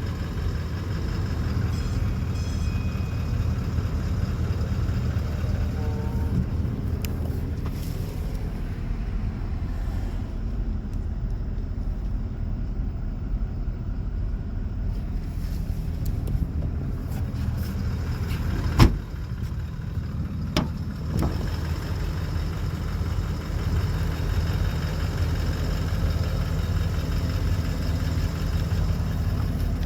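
Toyota Land Cruiser's 4.5-litre V8 turbo diesel idling steadily, with a sharp click about 19 seconds in and a lighter one a couple of seconds later.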